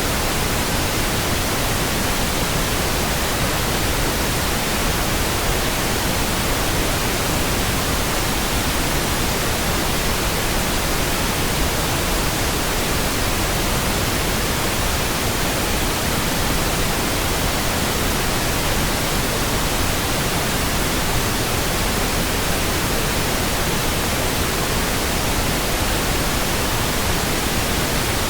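Steady synthetic pink noise: an even, unchanging hiss spread across the whole range of pitch, with no tones or sudden sounds.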